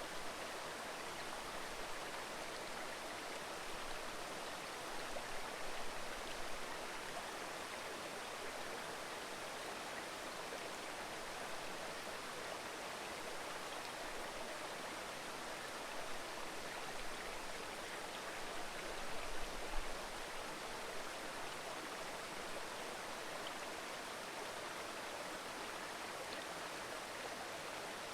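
Shallow mountain river babbling over stones, a steady even rush of water. Two brief low rumbles rise under it, about five seconds in and again around nineteen seconds.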